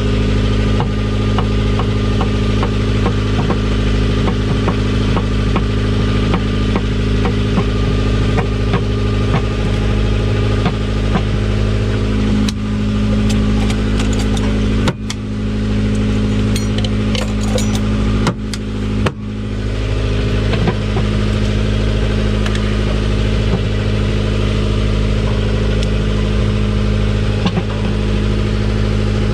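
A boat's engine running steadily at a constant speed, with brief drop-outs about halfway through.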